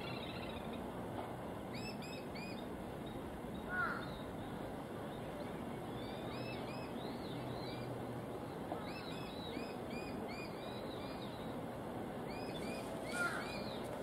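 Wild birds calling: runs of short, quick chirps that rise and fall, with two louder, harsher calls, one about four seconds in and one near the end, over a steady background noise.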